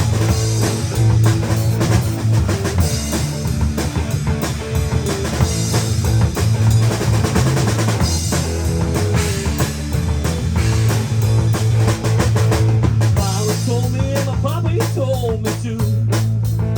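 A rock band playing an instrumental passage with the drum kit to the fore: bass drum, snare and rimshots over a held bass note, with a lead line that bends up and down near the end.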